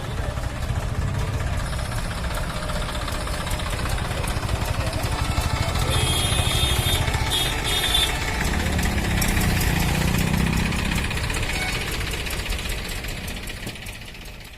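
Diesel tractor engine running at a steady, knocking idle. A brief high-pitched sound comes in about six seconds in, and the engine sound fades out near the end.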